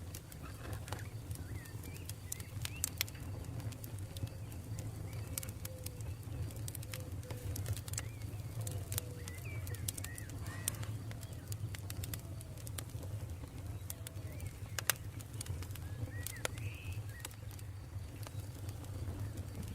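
Campfire burning with irregular sharp crackles and pops over a steady low rumble. Short chirping bird calls come and go behind it.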